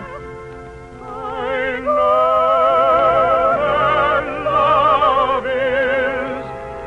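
Operetta-style orchestral music: sustained melody notes with wide vibrato. It is quieter at first and swells louder about two seconds in.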